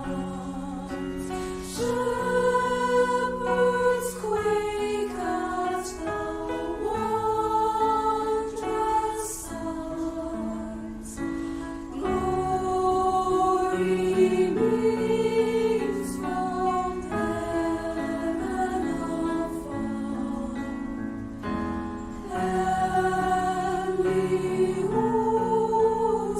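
A school choir singing a slow holiday piece in several-part harmony, holding each chord for a second or two.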